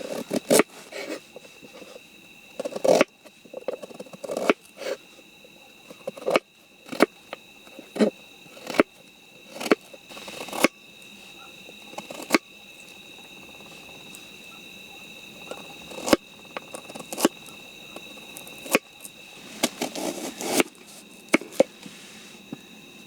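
Crickets keep up a steady high-pitched trill, broken by irregular sharp clicks and knocks every second or two.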